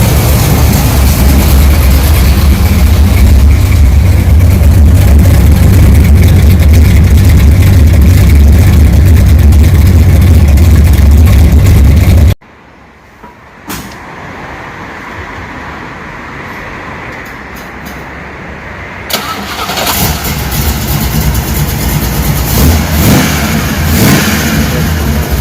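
A car engine running with a loud, deep rumble that cuts off abruptly about halfway through. Quieter vehicle noise follows and grows louder again toward the end.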